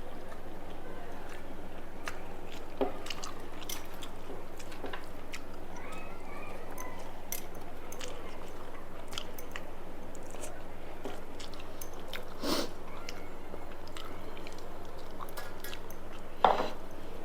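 Close-up eating sounds: wet chewing and small mouth clicks over a steady background hum, with three louder bites or crunches, about three seconds in, at twelve seconds and near the end.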